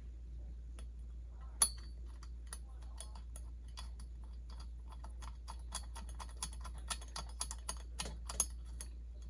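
Small metal parts clicking and clinking as they are handled and sorted: one loud click about a second and a half in, then a string of sharp clicks that grows busier toward the end, over a steady low hum.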